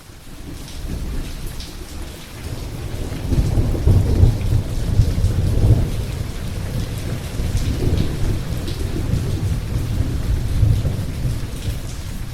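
Rain falling steadily under rolling thunder: the sound fades in from silence at the start, and a deep rumble builds from about three seconds in, swelling again later.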